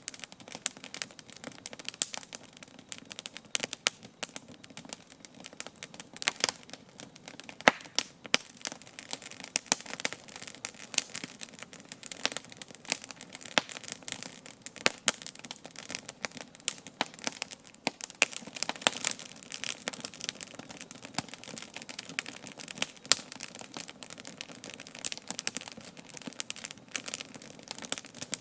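Wood campfire burning, with a steady stream of crackles and sharp pops.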